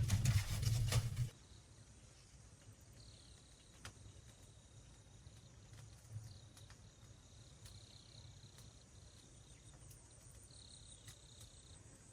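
Faint insects calling in a quiet forest: thin, high buzzing trills that come and go, with a few soft clicks. A louder noise with a low hum cuts off suddenly about a second in.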